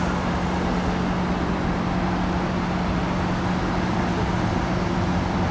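Steady traffic and engine noise with a constant low hum.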